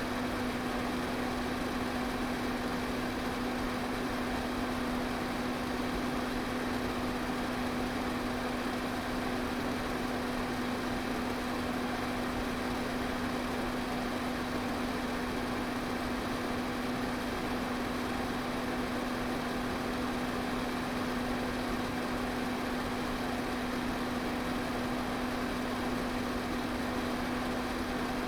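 Electric pedestal fan running steadily: an even rush of air over a constant motor hum.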